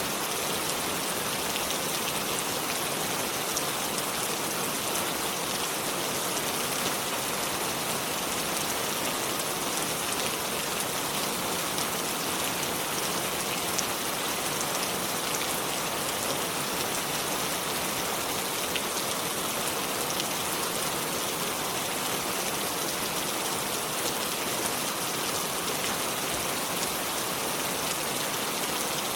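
Steady rain falling, an even hiss with many fine drop patters and no change in intensity.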